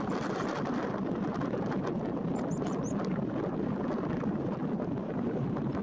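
Steady rushing noise with a few faint high chirps about two and a half seconds in.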